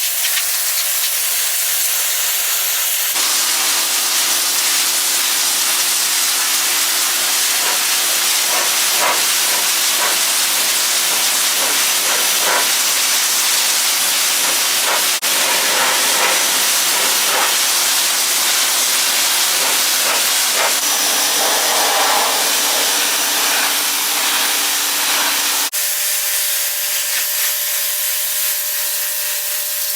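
Electric pressure washer spraying a concrete driveway: a loud, steady hiss of the high-pressure water jet with a steady hum underneath, growing fuller about three seconds in and thinning out near the end.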